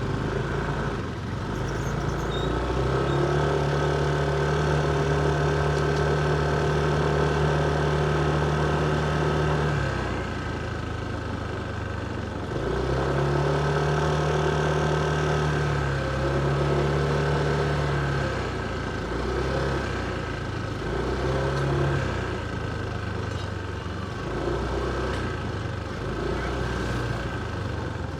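Motorcycle engine running under light throttle at a steady pitch for several seconds at a time, easing off about ten seconds in, then picking up again in shorter steady spells and easing off repeatedly, as in slow stop-and-go street riding.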